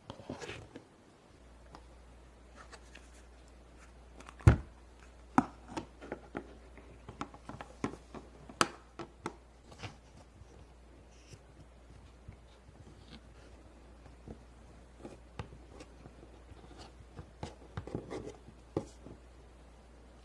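Plastic toy playset pieces being handled: scattered clicks and knocks, the loudest about four and a half seconds in, with a steady low hum starting near the beginning.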